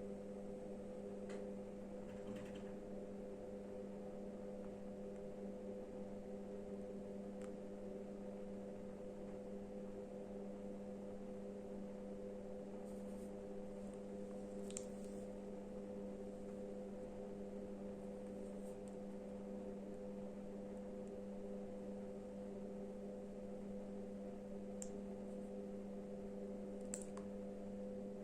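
A steady low hum made of a few constant tones, with a handful of faint, brief clicks scattered through it.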